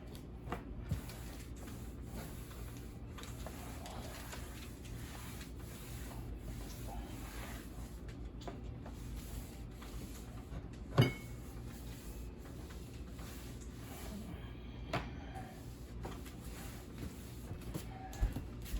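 Household kitchen knocks over a steady low hum: one sharp knock, like a cupboard door or hard object shutting, about halfway through, with a few fainter knocks and light rustling.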